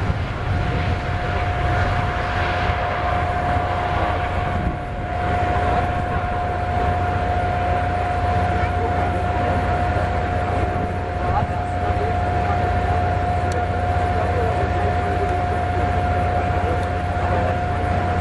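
Aircraft engine running steadily, a constant high whine over a low rumble, with no rise or fall in pitch.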